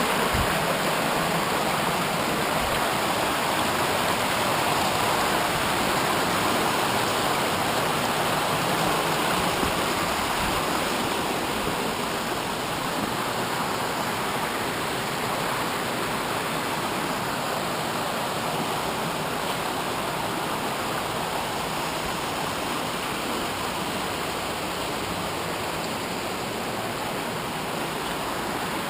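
Water rushing steadily from a waterfall and its stream, a little softer after about ten seconds.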